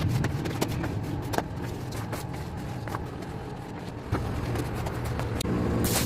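A rug-washing machine motor running with a steady hum, with scattered scrapes and clicks over it; about five and a half seconds in, a loud hiss of water spraying starts.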